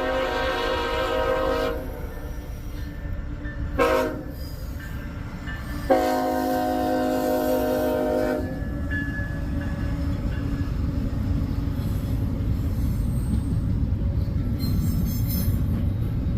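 Diesel freight locomotive air horn sounding a chord: a long blast that ends about two seconds in, a short blast, then another long blast, the close of the long-long-short-long grade-crossing signal. After it comes a steady low rumble as the train rolls past.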